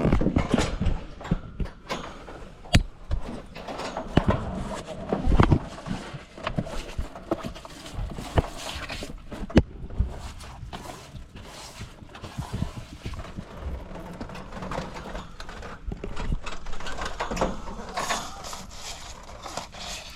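Dry leaves being pulled out by hand from the bottom of a heat pump's outdoor unit: rustling and crunching, with irregular clicks and knocks throughout.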